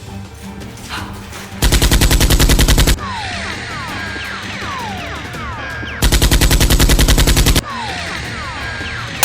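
Two bursts of rapid automatic gunfire, about a dozen shots a second, the first about a second and a half in and the second about six seconds in. Short falling pings follow each burst.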